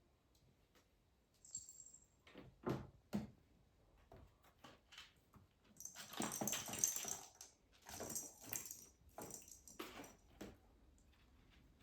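Young British Shorthair kittens playing with toys: scattered light taps and rustles, busiest from about six to nine seconds in, with faint kitten mews.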